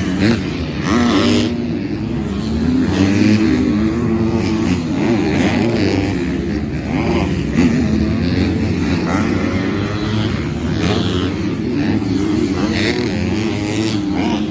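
Several 250cc four-stroke motocross bikes running on the track together, their engine notes overlapping and rising and falling as riders accelerate and back off.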